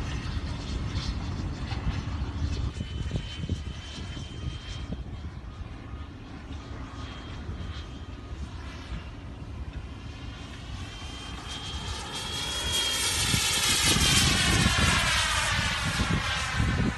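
Electric ducted-fan whine of a radio-controlled Freewing F-22 model jet in flight: faint at first, then from about twelve seconds in it grows louder and drops in pitch as the jet passes close. Wind rumbles on the microphone throughout.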